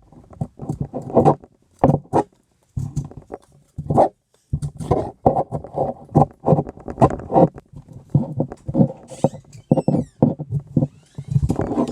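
Knife shaving a wooden stick in quick, repeated scraping strokes, with short pauses about two and four seconds in.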